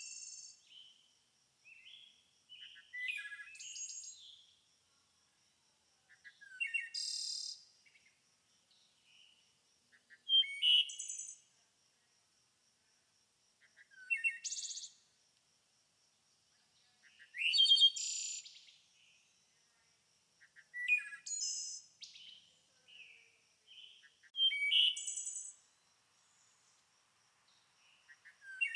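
A songbird singing short phrases of chirps and trills, one about every three to four seconds with quiet gaps between, over a faint steady high-pitched tone.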